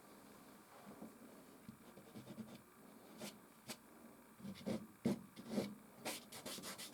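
Soft pastel stick scraping and rubbing across canvas: light, soft strokes at first, then a run of quicker, louder strokes from about halfway through.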